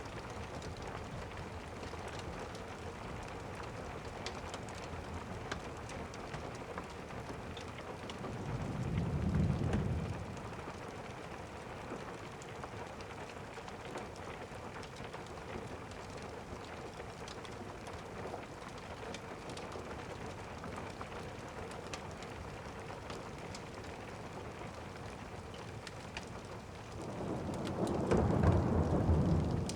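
Steady rain, with thunder rolling twice: a low rumble about a third of the way in and a louder, longer one near the end.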